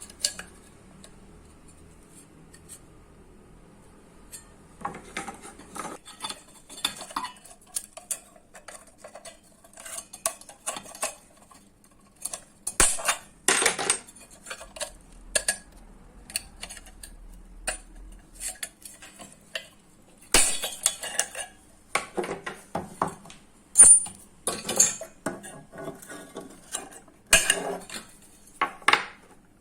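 Metal clinking, knocking and scraping as a microwave oven's magnetron is worked apart with hand tools to free its magnets, in irregular sharp knocks and short scrapes. It starts after a few quiet seconds, with the loudest knock about three-quarters of the way through.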